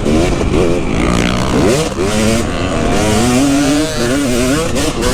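KTM 250 SX single-cylinder two-stroke motocross engine running hard, its pitch climbing and dropping again and again as the throttle is worked around the track, with one sharp rising rev about a second and a half in.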